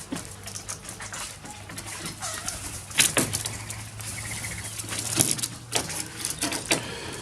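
Wild parrots feeding at a seed spot: scattered sharp clicks and taps, with louder knocks about three and five seconds in, and a short buzzy call a little after four seconds.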